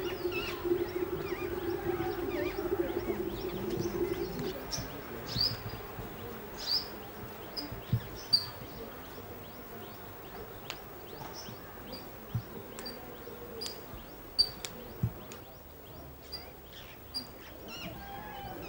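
Birds chirping: many short, high calls scattered throughout, with a few louder chirps standing out. A steady low hum underlies the first four seconds, then fades.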